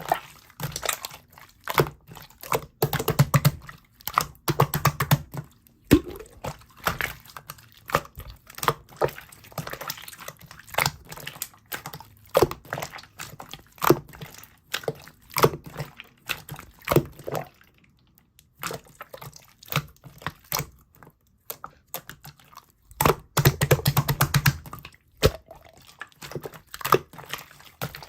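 Slime being squeezed and pressed by hand: a steady run of irregular sticky clicks, pops and crackles, thinning out for a few seconds past the middle and getting busier again shortly after.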